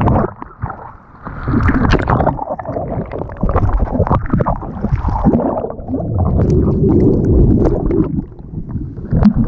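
Rough, stormy sea surf churning and splashing close to the microphone, with low rumbling and gurgling water and many short sharp splashes.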